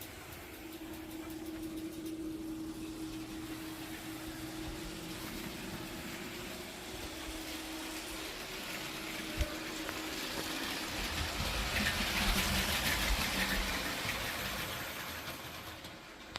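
A Lego train running on plastic track: a steady motor hum, then the noise of the wheels on the track grows louder as it comes close, loudest about twelve seconds in, and fades away. A single click about nine seconds in.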